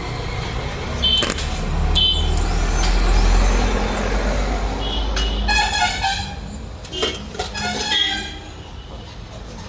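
A motor vehicle's low engine rumble swells to a peak and then drops away about six seconds in, over street noise with short high chirps and beeps.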